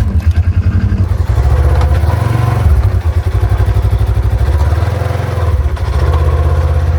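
Polaris RZR side-by-side's engine running loud under throttle as the damaged machine is put in reverse, easing off briefly about three seconds in and again near six seconds.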